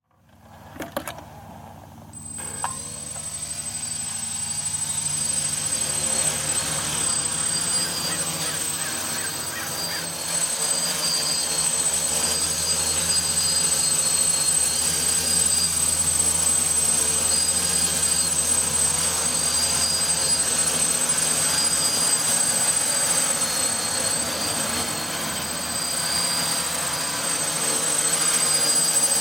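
F550 hexacopter's six motors and propellers spinning up with a rising whine about two seconds in, after a couple of clicks, then a steady buzzing drone with a thin high whine as it flies, its pitch wavering and growing louder after about ten seconds.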